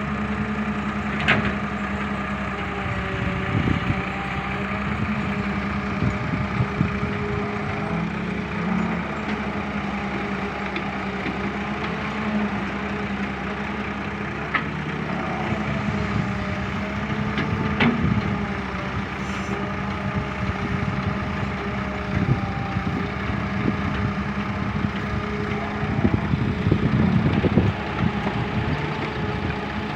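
Heavy vehicle engine running steadily, with a few sharp clicks and louder rattling near the end.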